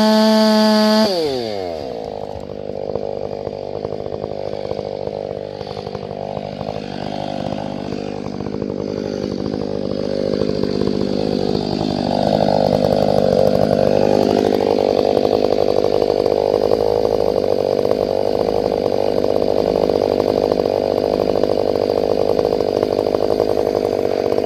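Chainsaw held at full throttle, then let off about a second in, its pitch dropping. It then runs at a lower, steady speed with a rough, noisy edge, gets louder about halfway through, and cuts off abruptly at the end.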